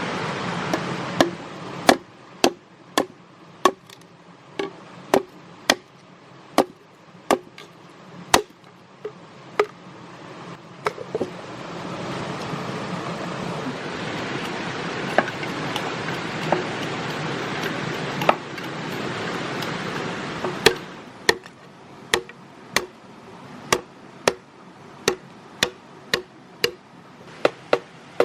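Repeated sharp chopping strikes of a blade on wood, about one and a half a second, in a steady rhythm. In the middle the strikes thin out while a steady rushing noise swells, then the chopping resumes.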